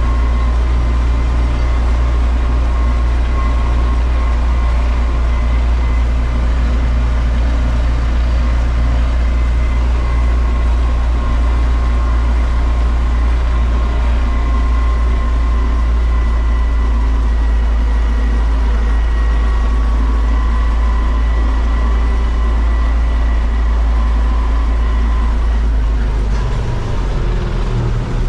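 Heavy diesel farm machinery running steadily: a loud low engine drone with a thin, steady high whine over it. The engine note shifts and drops slightly about 26 seconds in.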